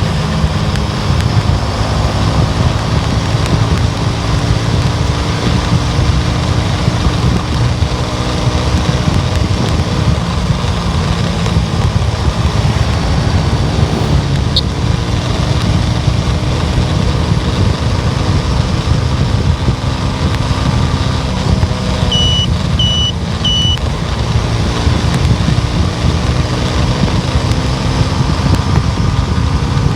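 Steady road and engine noise of a moving car, a constant low rumble with an engine hum that drifts slowly up and down in pitch. A single click comes near the middle, and three short high electronic beeps sound about two-thirds of the way through.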